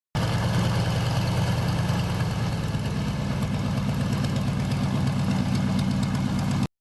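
An engine idling steadily, starting and stopping abruptly.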